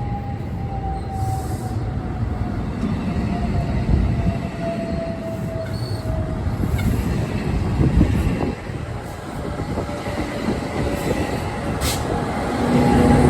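Freight train rolling past with a steady rumble of wheels on rail and a thin wheel squeal that slides slowly down in pitch over the first half.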